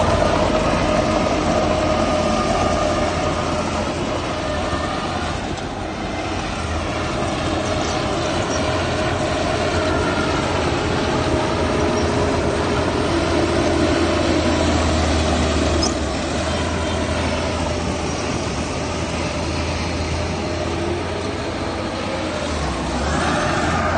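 Heavy diesel machinery running steadily, a low engine rumble under a steady high whine.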